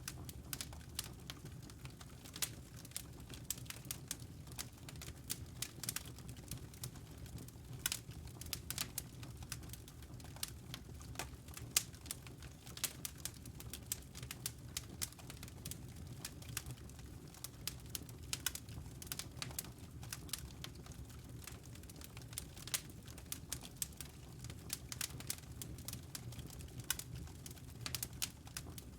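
Fire in a fireplace crackling: irregular sharp pops and snaps, many each second, over a low steady rumble of the flames.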